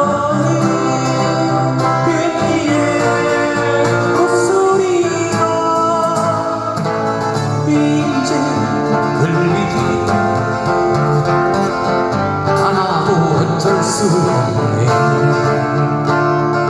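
Live band music: a singer's voice over guitar accompaniment, a Korean folk-pop song played at a street busking.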